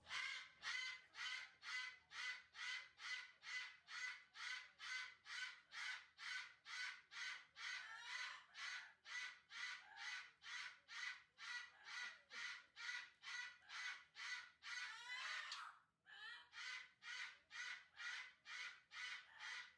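A parrot calling in a fast, even series of short squawks, about two a second, with a brief break near the end before the calls start again.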